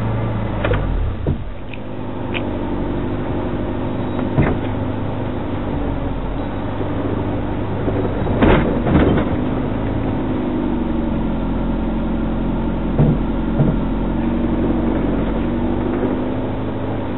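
Off-road vehicle's engine running steadily at low speed, with occasional knocks and clunks; the loudest come about eight and a half seconds in.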